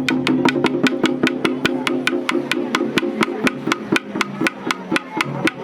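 Japanese taiko drumming: an even, fast run of sharp wooden-sounding strikes, about six a second, over a low steady ringing that fades out about halfway through.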